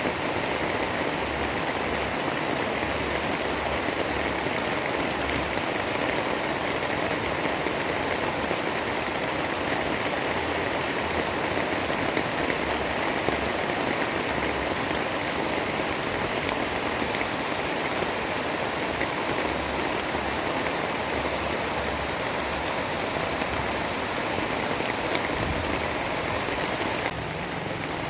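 Steady storm ambience: a dense, even rushing noise like heavy rain and wind, with no distinct events. The level steps down slightly about a second before the end.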